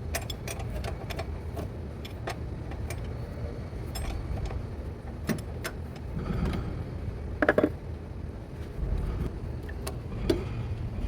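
Hand tools working on the transmission mount's nut: scattered metallic clicks and clinks, with a short cluster of sharper knocks about seven and a half seconds in, over a steady low rumble.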